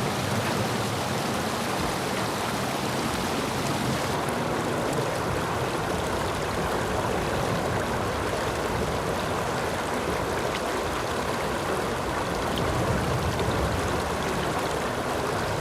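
Creek water running steadily over rocks, a continuous rushing babble.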